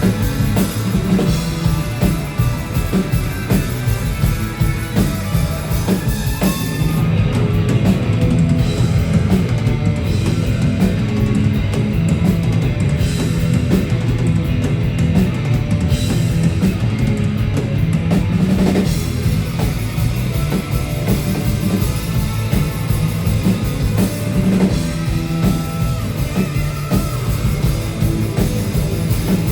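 A rock band playing live: drum kit, bass and electric guitars. The high end thins out for about ten seconds from around seven seconds in, then comes back.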